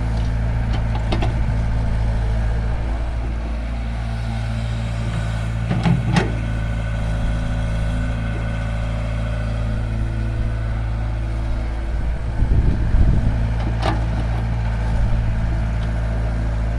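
Heavy diesel machinery running steadily with a low engine drone. Sharp metallic knocks come about six seconds in and again near fourteen seconds, and the engine swells louder for about a second around twelve seconds.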